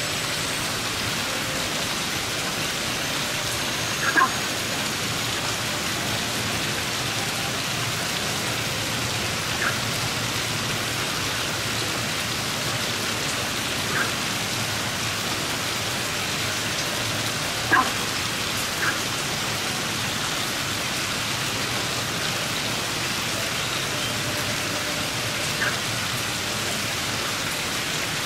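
Heavy rain falling steadily, with sharp ticks now and then from larger drops striking something close by.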